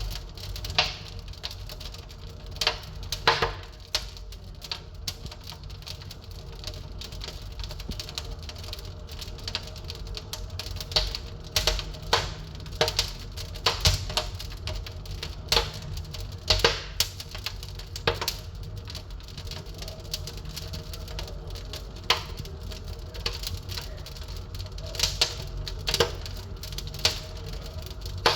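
Wood fire crackling in an open fireplace: irregular sharp pops and snaps over a low, steady rumble.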